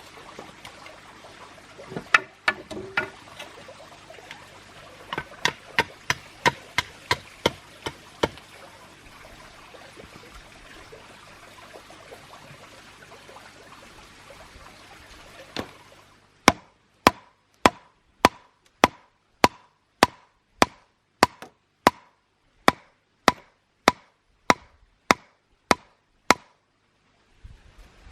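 Sharp knocks: a few scattered strikes and a quick run of them over a steady low hum, then a long, very regular series a little under two a second, each with a short ring.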